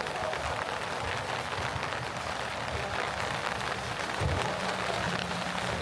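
Rain falling steadily on the street, a dense patter of drops, with a short low rumble about four seconds in.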